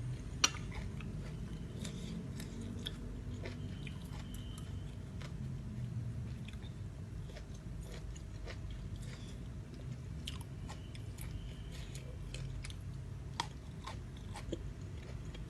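Close-up chewing and crunching of a mouthful of spicy rice-noodle salad with crispy squid: many small scattered crunches, with one sharp crack about half a second in, over a low steady hum.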